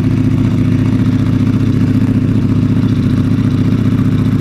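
Motorcycle engine idling steadily on its stock factory exhaust, a loud, even, fast pulsing.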